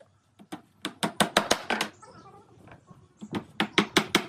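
Rapid sharp knocks on wood, about six a second, in two quick runs: one about a second in and another near the end.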